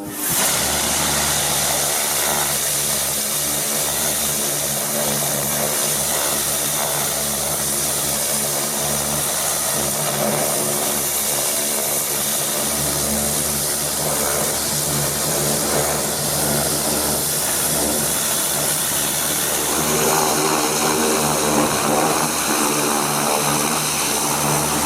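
Kärcher compact-class ultra-high-pressure washer (up to 350 bar) running steadily: a low, even engine hum under a strong hiss. It starts suddenly and grows a little louder and brighter about twenty seconds in.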